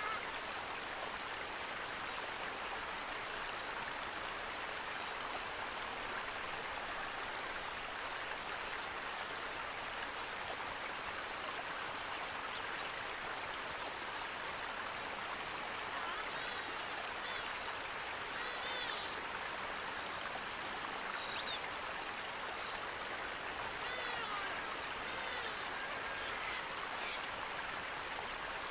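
Running water rushing steadily, with a few faint, short bird chirps over it in the second half.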